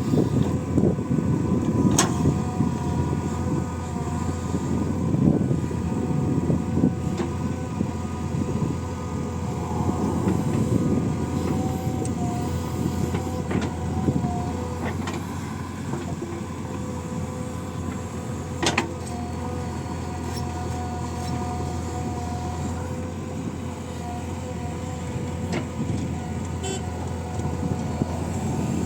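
Diesel engine of a JCB 3DX backhoe loader running steadily under working load, with two sharp metallic knocks, one near the start and one about two-thirds of the way through.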